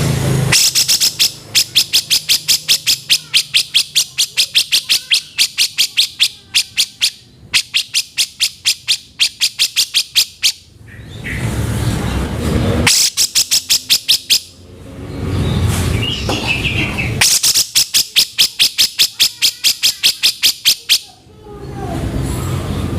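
Cucak jenggot bulbul calling in bouts of rapid, evenly repeated sharp notes, about five a second, used as harsh, fast masteran song. The bouts are broken by stretches of a rougher, noisier sound.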